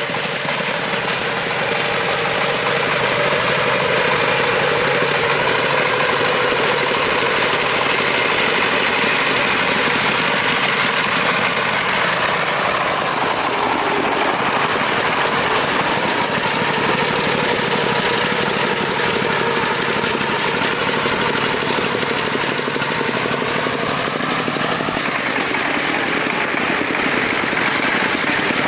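Farm truck's engine running with a rapid, knocking chug. Its speed changes around the middle and again near the end.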